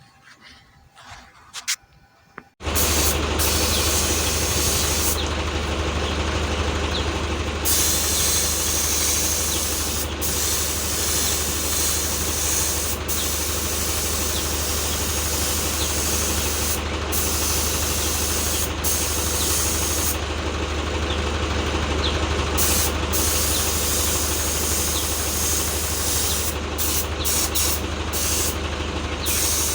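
A machine starts abruptly a couple of seconds in and runs steadily with a low hum under a loud hiss; the highest part of the hiss cuts out briefly a few times.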